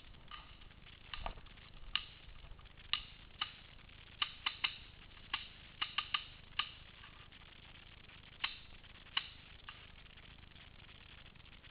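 Paintball markers firing in the distance: about fifteen sharp, faint pops at irregular intervals, some in quick bursts of two or three shots.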